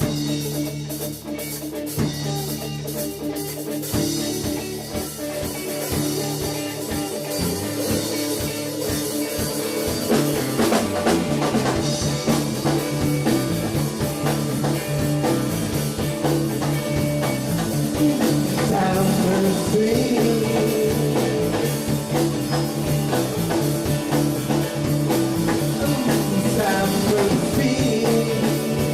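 A rock band playing: drum kit and electric guitars over a steady bass, growing fuller and a little louder about ten seconds in.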